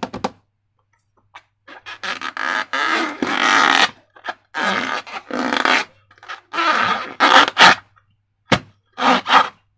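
Slime being squished and worked by hand, in a run of irregular wet squelching bursts with short pauses between them.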